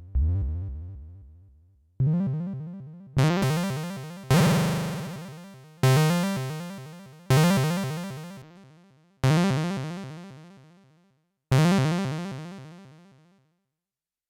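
Elektron Syntakt's SY Chip machine playing single chiptune-style synth notes with no effects, each starting sharply and fading over a second or two. The notes come further apart as it goes, one around four seconds in wavers in pitch, and the last dies away near the end.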